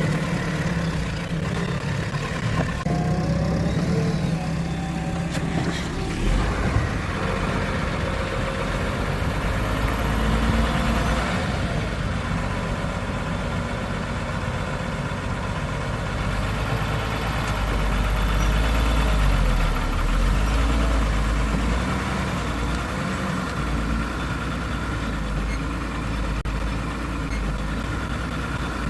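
Heavy diesel engine running steadily, swelling twice as it comes under more load.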